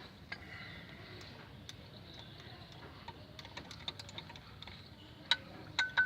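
Scattered sharp metal clicks from hand tools working on bolts, then, near the end, a run of louder ringing clinks of metal striking metal, about three a second.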